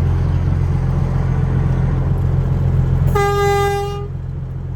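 Peterbilt semi truck's horn sounding once for about a second, a single steady note that sounds weak, over the steady drone of the diesel engine in the cab.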